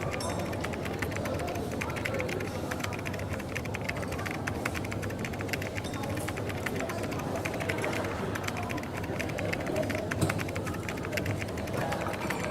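Coffee shop ambience: a steady background murmur with a dense, irregular patter of small clicks and taps throughout.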